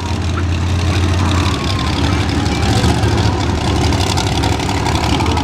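Monster truck engine idling with a steady, deep low rumble.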